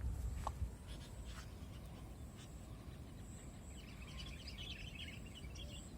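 Small birds chirping in a rapid twittering cluster about four seconds in, over a low rumble, with a few faint clicks early on.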